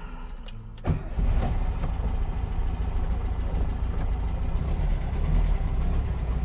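1965 Volkswagen Beetle's air-cooled flat-four engine being started: a short crank, catching a little under a second in, then idling steadily.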